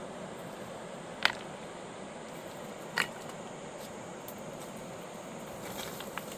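Steady rushing of a fast mountain river, with two sharp clicks about a second and three seconds in.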